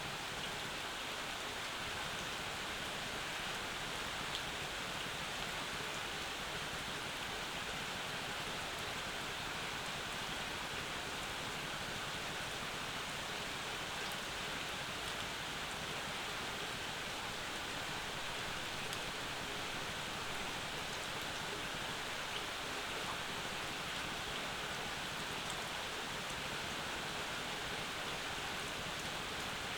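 Rain falling steadily, an even hiss with no thunder or other distinct sounds.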